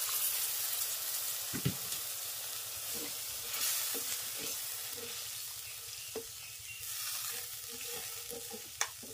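Hot masala and boiled chickpeas in a pan sizzling and hissing as water is added, while a wooden spatula stirs and knocks against the pan a few times.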